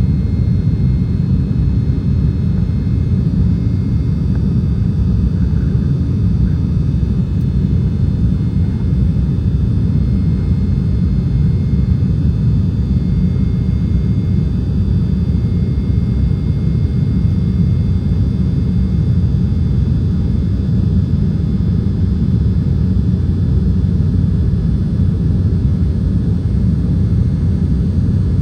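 Cabin noise inside an Embraer E195 jet airliner: a steady, loud rumble from its GE CF34-10E turbofans and the airflow, with a faint high engine whine above it.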